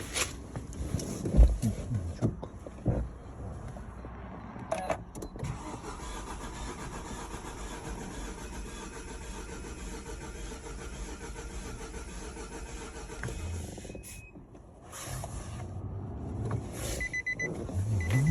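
Car engine turning over steadily, with a few knocks in the first couple of seconds and a brief drop-out near the end.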